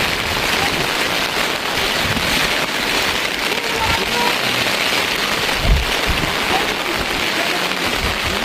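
Steady rain falling, with one dull thump a little past halfway through.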